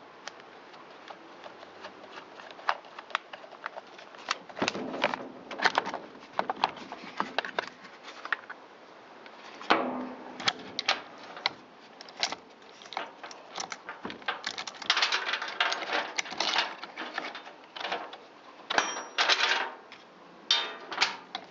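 Irregular metallic clicks, clinks and rattles from hand tools and chainsaw parts as the bar and saw chain are taken off a Stihl MS193T chainsaw, coming in bursts with short pauses between.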